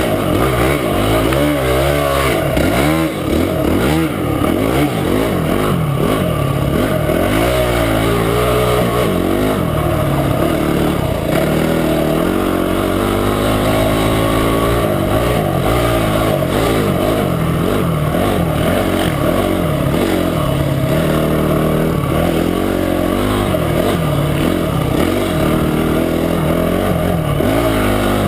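Motorcycle engine running while ridden along a trail, its pitch rising and falling again and again as the throttle opens and closes and the gears change.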